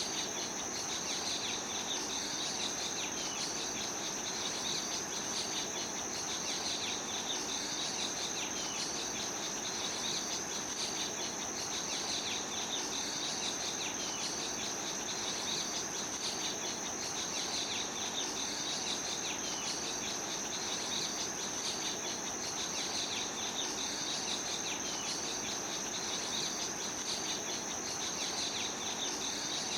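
A steady chorus of insects: a continuous high-pitched shrill with a rhythmic, repeating chirping beneath it.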